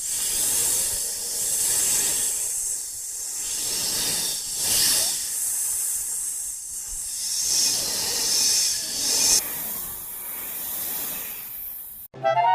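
A hissing noise with no tones that swells and eases several times, a couple of seconds apart, then cuts off suddenly near the end.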